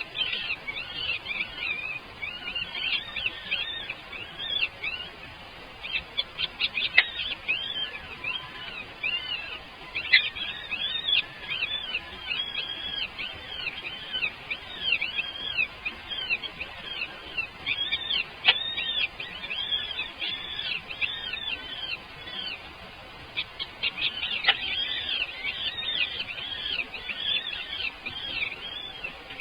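Birds chirping in a steady run of short, high, arched chirps, about two or three a second, with a few sharp clicks now and then.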